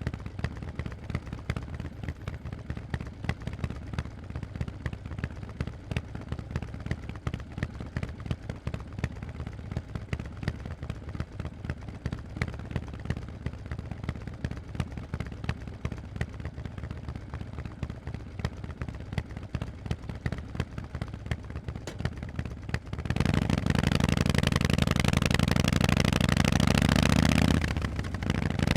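Harley-Davidson Forty-Eight's air-cooled Sportster V-twin through Vance & Hines exhausts, idling with a lumpy beat of sharp exhaust pulses. About twenty-three seconds in it opens up, much louder and steady, for about four seconds, then drops back briefly near the end before picking up again.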